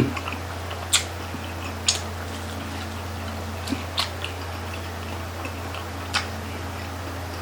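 Scattered sharp clicks and mouth smacks of eating grilled isaw off barbecue sticks, about five in all, over a steady low hum.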